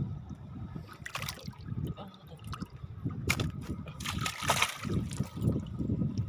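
River water splashing and sloshing, with a short splash about a second in and a longer one about four seconds in, over a steady low rumble.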